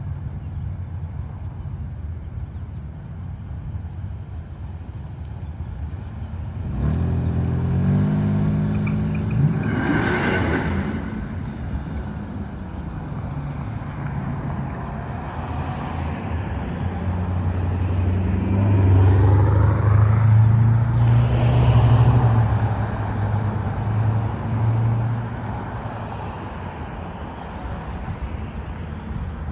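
Road traffic: vehicles pulling away and driving past, engines rising in pitch as they accelerate. The loudest pass is about twenty seconds in.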